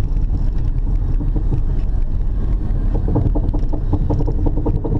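Honda Odyssey minivan on the move, heard from inside the cabin: a steady road and tyre rumble, joined about three seconds in by a rapid, rhythmic clunking from the left rear wheel. The clunking comes from loose wheel nuts.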